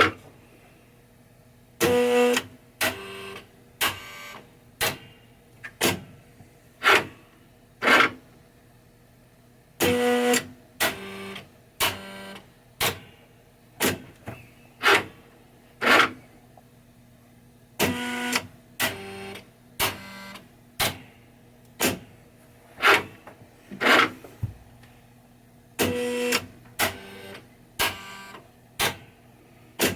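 1990 Williams Funhouse pinball machine's Rudy head mechanism being cycled, clacking sharply about once a second. Every eight seconds there is a longer, louder clatter with a steady hum in it, the pattern repeating like an automatic test loop. The mechanism is working but loud.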